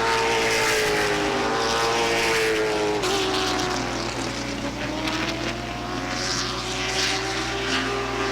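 Late model stock cars' V8 engines running at racing speed around the track, a steady drone whose pitch sags about three seconds in and then climbs again as the cars come off the corner.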